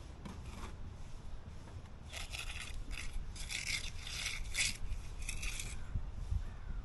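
A hand tool scraping a hard surface in a series of about five rasping strokes starting about two seconds in, over a low rumble.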